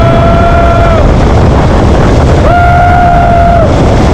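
Loud wind buffeting the action camera's microphone during a fast zip-line ride. Two long, steady high tones sound over it, one in the first second and another from about two and a half seconds in.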